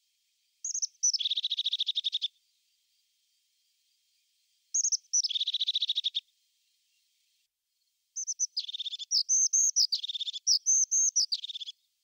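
Crested tit singing: three song phrases, each a couple of high thin notes followed by a fast purring trill, the third a longer run of repeated phrases.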